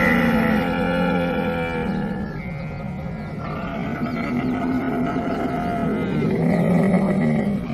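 Camel bellowing: two long, drawn-out moaning calls, the second ending shortly before the end.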